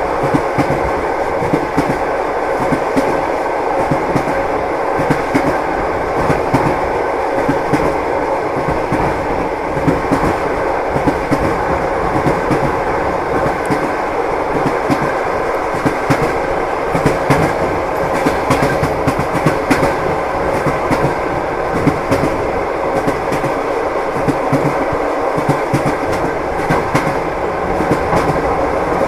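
Train wheels clattering on the rails: a steady running rumble crossed by a constant irregular clicking and clacking.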